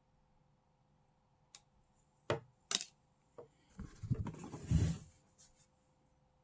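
Small objects being handled on a work surface: a few separate sharp clicks and knocks, then about a second of closer knocking and rustling.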